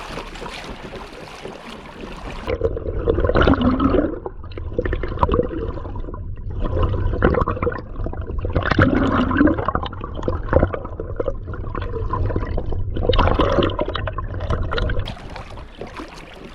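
Water rushing and gurgling as the kayak picks up speed through the sea. From about two and a half seconds in, it turns muffled with a steady low rumble and keeps on so until near the end.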